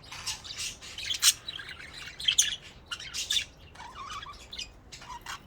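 Pet budgerigars chirping and chattering in a rapid, busy run of short high chirps, with a brief lower warble about four seconds in.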